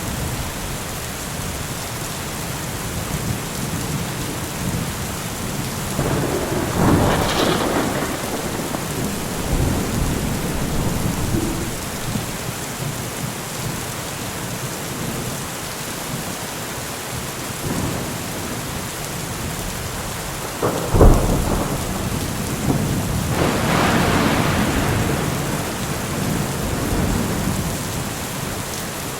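Steady heavy rain hiss with thunder: a rumble about six seconds in, then a sharp crack about twenty-one seconds in followed by a long rolling rumble.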